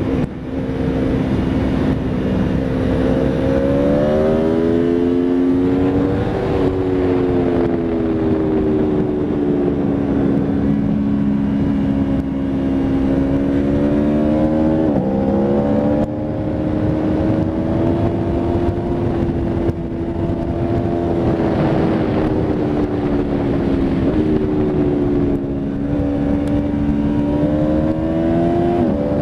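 Aprilia Tuono V4 RR's V4 engine running hard on a track lap, its pitch climbing and falling with the throttle. The pitch drops suddenly, as at a gear change, about halfway through and again at the end, over a steady rush of wind noise.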